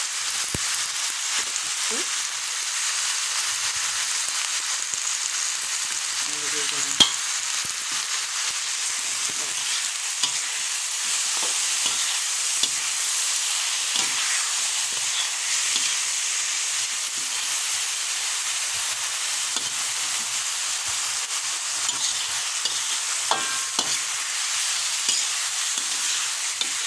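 White cabbage, radish and tomato stir-frying in a pan, sizzling steadily, with a spatula scraping and clicking against the pan. One sharp knock about seven seconds in.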